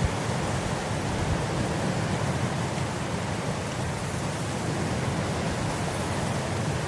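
Wind blowing steadily across grass, an even rushing noise without breaks or gusts standing out.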